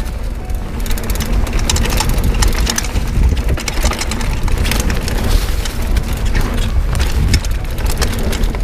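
Mountain bike being ridden over a rough trail: dense irregular clicking and rattling of tyres on stones and of the bike's parts, over a steady low rumble.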